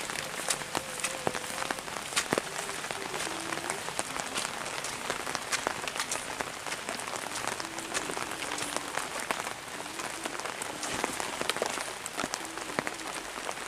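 Steady rain falling, a dense patter of drops hitting surfaces.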